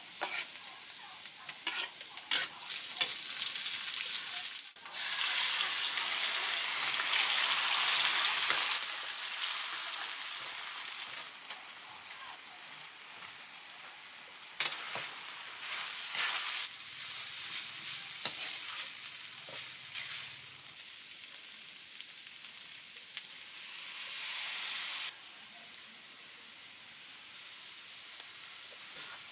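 Garlic, onions and shredded bamboo shoots sizzling in oil in a metal wok, with a spatula clicking and scraping against the pan as they are stirred. The sizzle is loudest for a few seconds about five seconds in and then settles to a steadier, quieter hiss.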